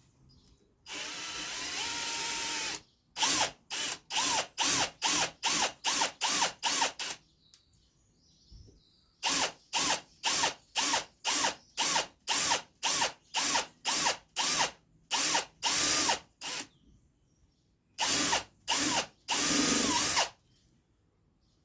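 Power drill boring a dowel hole into wood. The motor runs once for about two seconds, then is pulsed in many short bursts, about two a second, each a whine that spins up and winds down, in three runs with short pauses between them.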